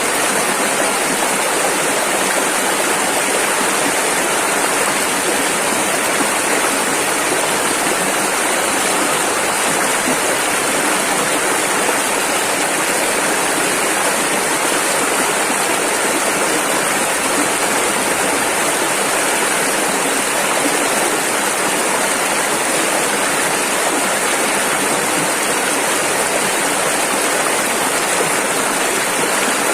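Rushing river: fast water flowing over rapids in a steady, loud rush.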